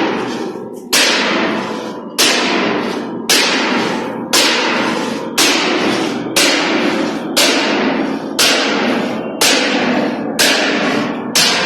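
Steel plate struck with a heavy hammer at a steady beat of about one blow a second, each blow ringing out and dying away before the next.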